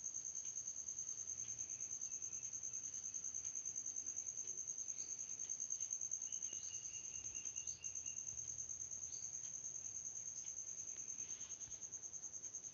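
An insect's steady high-pitched trill, pulsing several times a second, with a few faint chirps underneath.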